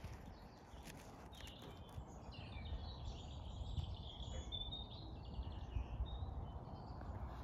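Songbirds singing: a run of high chirps and warbling phrases beginning about a second and a half in, over a low steady rumble.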